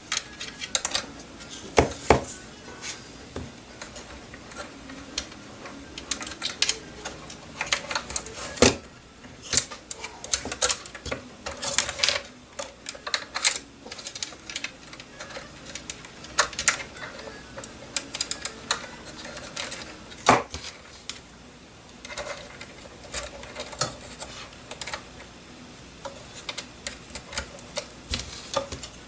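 Irregular light clicks and taps of small plastic drone parts, connectors and hand tools being handled and fitted, with a few sharper knocks among them.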